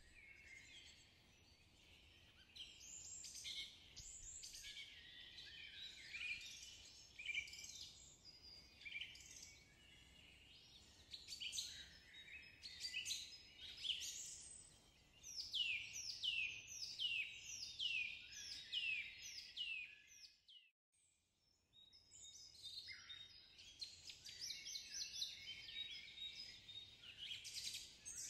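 Songbirds singing and chirping in many quick high notes, with a run of down-sweeping whistles repeated about twice a second around the middle. The sound cuts out completely for about a second roughly two-thirds of the way in, then the song resumes.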